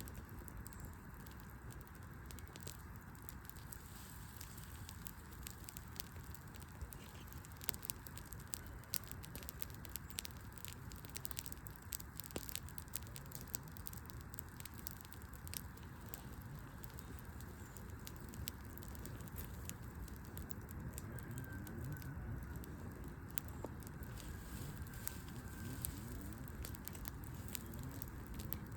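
Wood fire burning in an outdoor hearth, crackling with a steady scatter of small, sharp snaps and pops from the burning logs.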